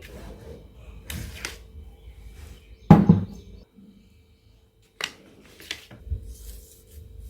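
Kitchen utensils being handled and set down, giving a few separate knocks and rustles, with one heavy knock about three seconds in.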